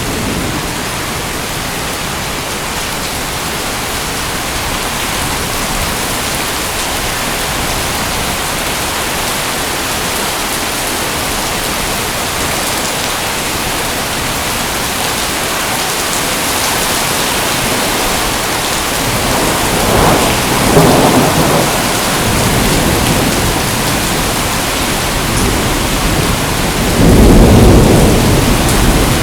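Steady rain pouring down, with thunder rumbling twice: once about two-thirds of the way in and again near the end.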